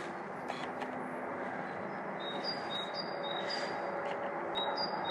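A small songbird singing a repeated two-note phrase, a short high note followed by a slightly lower one, about twice a second, starting about two seconds in, over a steady background hiss.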